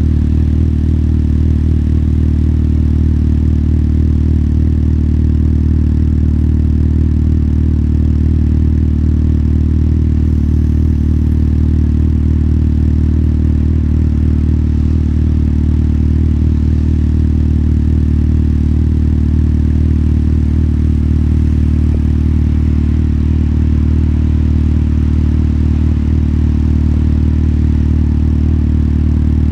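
Motorcycle engine running at a steady, unchanging pitch, with no revving or change in speed.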